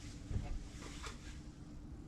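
A couple of faint light taps over a low steady hum, about half a second apart early on.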